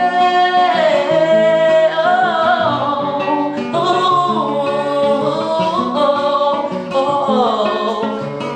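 Song: a voice sings long notes that slide up and down, without clear words, over a guitar accompaniment.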